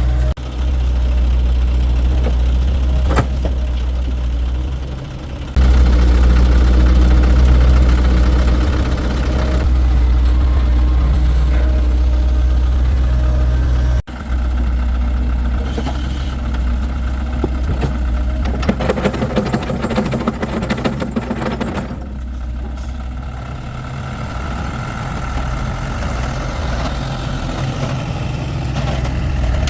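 Heavy diesel engine of a truck or excavator running steadily with a deep low rumble, dipping briefly and then running louder again, with a sudden break about halfway through.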